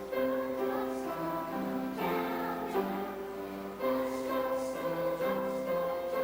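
Music: a choir singing a song with instrumental accompaniment.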